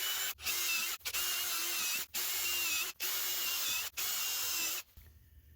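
Ryobi PBLID02 brushless impact driver, modified with a 1/2-inch anvil, running in repeated trigger bursts of about a second each with brief gaps between, a steady whine through each burst, stopping shortly before the end.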